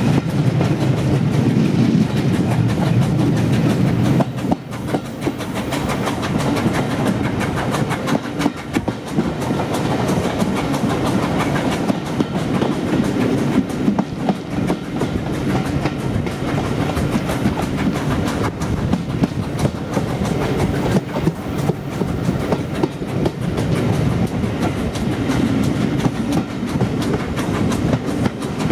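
Passenger coaches of a heritage train running along the line, heard from a carriage window: a steady rumble of wheels on rail with an irregular clickety-clack over the rail joints, heavier for the first few seconds and again near the end.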